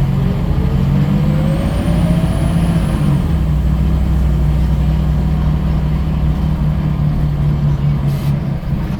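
Scania L94UB bus engine running under way, with a whine that rises over the first three seconds as the bus gathers speed, then a steady drone.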